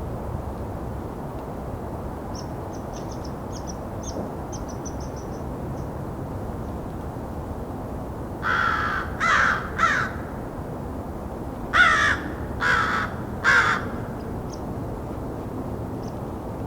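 American crows cawing at close range: two bursts of three harsh caws each, a couple of seconds apart, about halfway through. A run of faint, high-pitched chips comes before the caws, over a steady low background rumble.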